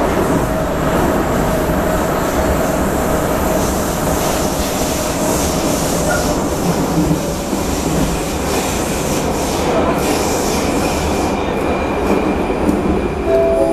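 Prague Metro line A train running through a tunnel, heard from inside the car: a loud, steady rumble of wheels on rail and traction equipment with hiss. Near the end a set of high steady tones comes in over the rumble, like wheel squeal.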